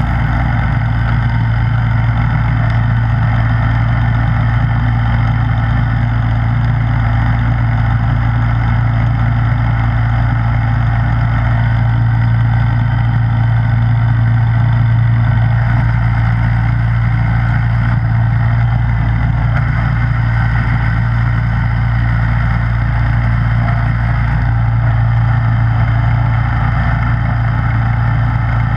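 Snowblower engine running at a steady speed: one even, unbroken drone.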